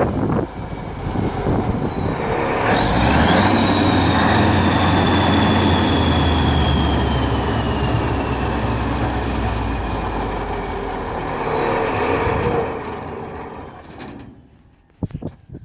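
Scania DS14 turbocharged V8 diesel engine running loud. About three seconds in its turbo whine rises sharply, then falls slowly over several seconds. The engine sound dies away near the end, with a few short knocks.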